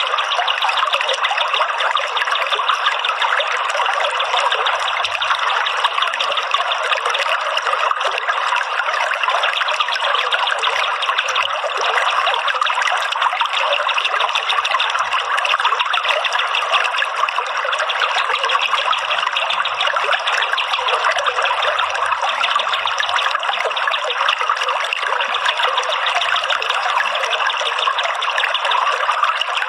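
Steady trickling, running water with no bass, going on evenly without a break.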